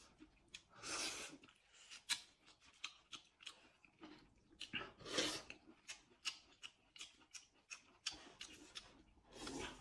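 Close-miked eating sounds: chewing and wet mouth clicks mixed with crackly peeling, and longer slurps of noodles about a second in, about five seconds in and near the end.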